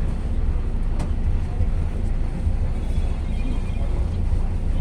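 Boat engine running with a steady low rumble; a single sharp click about a second in.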